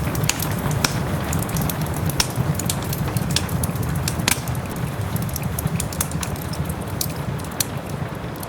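Wood fire crackling in a fireplace, with scattered sharp pops, over a steady hiss of soft rain.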